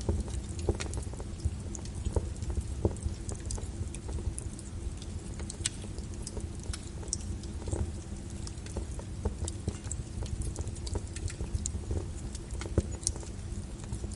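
Wood fire crackling: irregular sharp pops and snaps from the burning logs over a steady low rumble of the flames.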